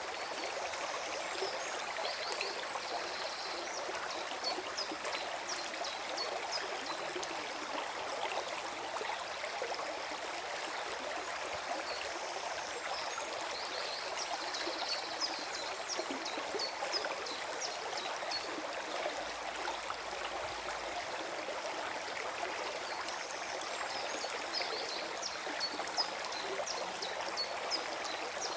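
Small forest stream gurgling and trickling steadily, with three spells of quick high ticks over it.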